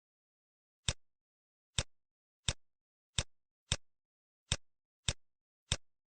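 Computer mouse clicks: eight sharp single clicks at uneven spacing, roughly one or two a second, with silence between.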